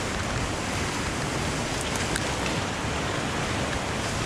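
Waterfall rushing, a steady even hiss, with a couple of faint clicks about two seconds in.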